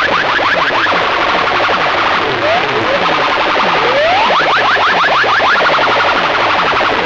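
Electronic siren-style sound effects played loud over a PA sound system: layered rising and falling sweeps repeating over and over, with bursts of fast upward chirps near the start and again about four seconds in, over a low falling sweep about twice a second.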